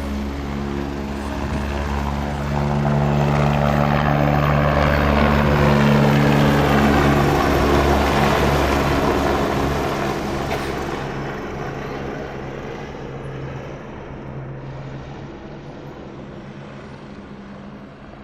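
Agusta A109E Power twin-turbine helicopter taking off: rotor and turbine noise swells to its loudest about six seconds in, then fades steadily as the helicopter flies away.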